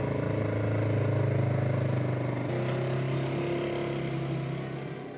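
Plow vehicle's engine running steadily while pushing snow, its pitch dropping slightly about halfway through and the sound fading near the end.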